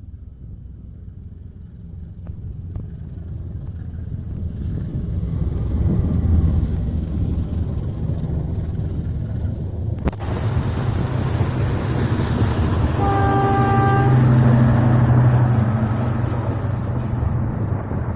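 KAI CC206 diesel locomotive and its train passing close. A low rumble builds, loud wheel-and-rail noise comes in suddenly about halfway through, and the locomotive's horn sounds one short blast about two-thirds of the way in.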